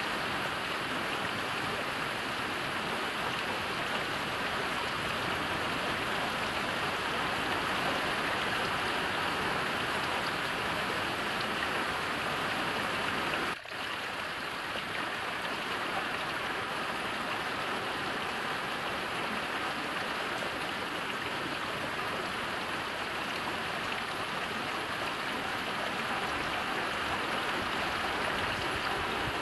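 Heavy rain falling in a steady, even hiss, with a brief sharp dip in level about halfway through.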